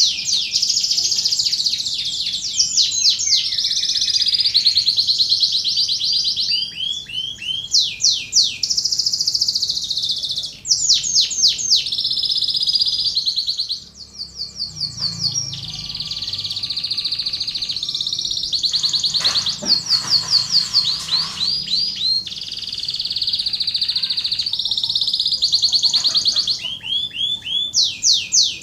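Domestic canary singing a long, nearly unbroken high-pitched song of fast trills and rolls, with runs of quickly repeated sweeping notes; the song breaks off briefly about halfway through.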